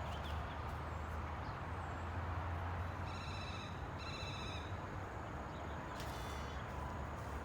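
Outdoor ambience: a steady low rumble with two short, clear bird calls about three and four seconds in, and a click followed by a brief call near six seconds.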